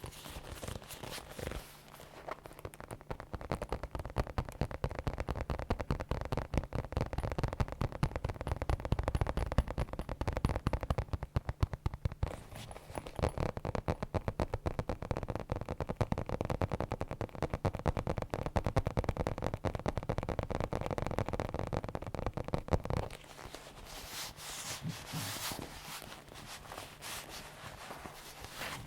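Leather bags and gloves being handled and squeezed, creaking and crackling in a dense run of small clicks that grows quieter and sparser about 23 seconds in.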